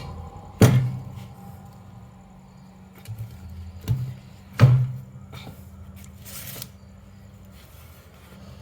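Metal engine parts knocking as they are handled during the fit of a Honda Dio crankshaft and timing chain. There is a sharp knock about half a second in and two more close together around four seconds in, with lighter rustling between, over a steady low hum.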